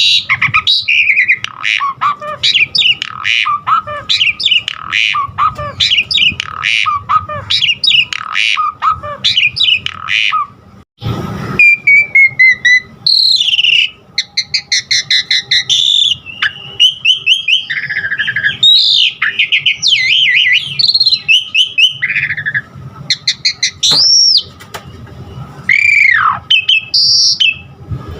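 Asian pied starling (jalak suren) singing a loud, varied song: quick repeated chattering notes, then after a brief break about eleven seconds in, a passage of slurred whistles, including a long whistle that rises and falls near the end.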